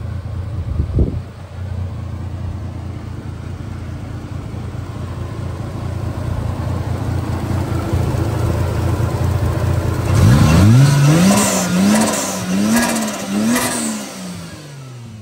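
Toyota 1JZ-GTE twin-turbo straight-six in a Hilux, running steadily with a brief thump about a second in. About ten seconds in it is revved several times in quick succession, each rise and fall with short hissing puffs, then it drops back.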